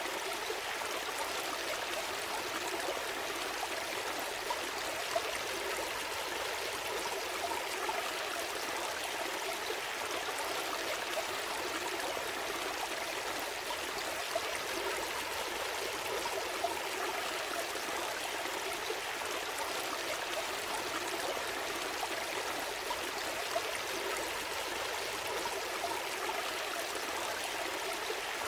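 Stream flowing and trickling steadily, with a continuous babbling rush of water.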